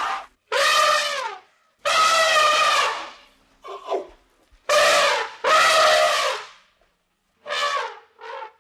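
Elephant trumpeting: a series of loud calls, each up to about a second long with the pitch dropping at the end, with a few shorter notes between them.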